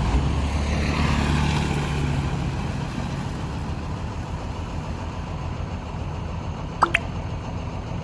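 Heavy machine's diesel engine running steadily, a little louder in the first two seconds. About seven seconds in, two short, sharp ringing clicks.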